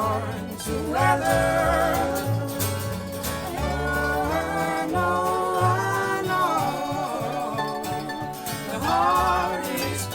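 Country-bluegrass song: a singer's voice over plucked guitar and banjo with a bass line.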